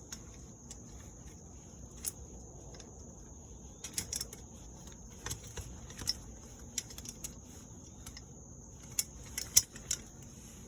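Light metal clicks and clinks at irregular intervals as a nut, washers and a bolt are handled and threaded by hand on a steel canopy truss, over a steady high insect drone.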